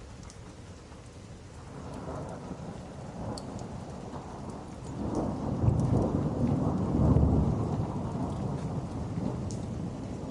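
A long low roll of thunder that builds about two seconds in, is loudest in the middle, then slowly fades, over steady rain. Scattered small crackles from a wood fire sound throughout.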